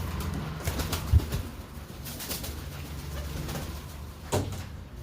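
Domestic pigeons cooing, with two sharp knocks, about a second in and near the end.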